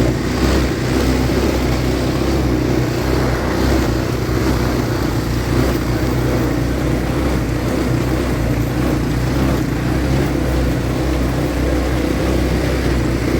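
ATV engine running steadily at a fairly even pitch, with no revving.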